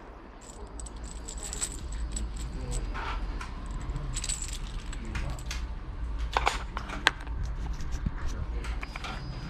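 Light metallic clinks and jangling from small metal objects being handled, with two sharper clicks about six and a half and seven seconds in.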